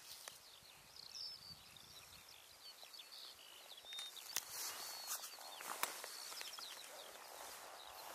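Small birds singing in quick series of short, high chirping notes, over a faint steady hiss, with two sharp clicks about four and a half and six seconds in.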